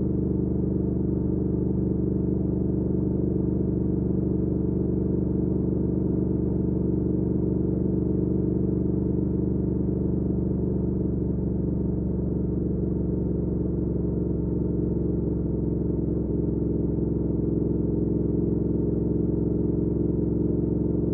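2019 Triumph Speed Twin's 1200 cc parallel-twin engine running at a steady cruise through a Weslake Shorty Pro exhaust: an even drone that holds nearly the same pitch throughout.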